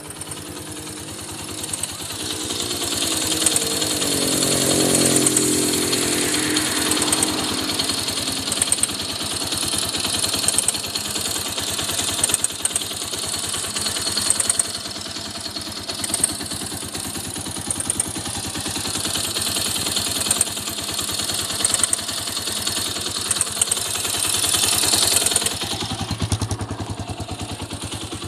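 Honda XR200 single-cylinder four-stroke engine running with a ticking noise whose cause the owner does not know. The revs rise a few seconds in and fall back, and the note drops lower near the end.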